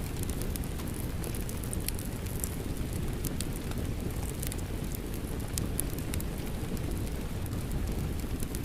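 Wood fire crackling, with scattered sharp pops, over a steady low rush of rain.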